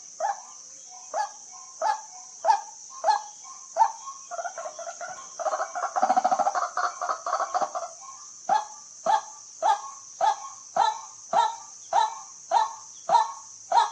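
White-breasted waterhen calling: a monotonous series of short, honking 'kwak' notes, a little under two a second. In the middle they run together into a louder, faster chatter for a few seconds before the steady series resumes. A steady high hiss runs underneath.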